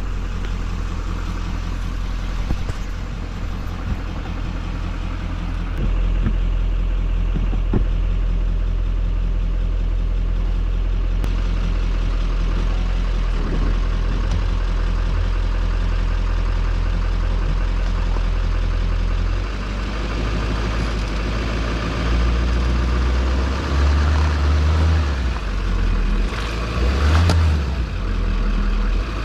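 Chevy Duramax turbo-diesel pickup engine running under load as the truck tries to pull itself out of mud on 2x4 boards strapped to its wheels; the engine picks up about six seconds in and revs in short surges near the end.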